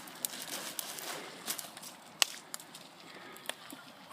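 Faint rustling and scattered sharp clicks from bonfire materials being handled, with the loudest click about two seconds in.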